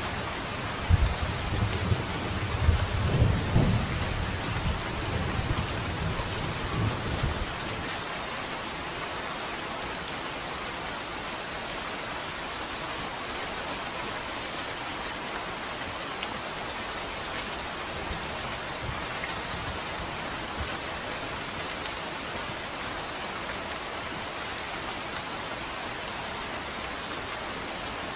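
Steady rain falling, with thunder rumbling and crackling through the first seven seconds or so; the thunder then dies away, leaving only the even hiss of the rain.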